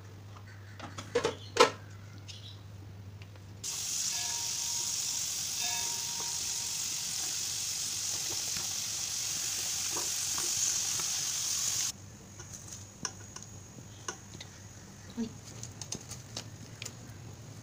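Raw potato sticks deep-frying in hot oil in a kadai: a steady sizzle for about eight seconds that starts and stops abruptly. A few sharp knocks come before it, and light scattered clicks follow it.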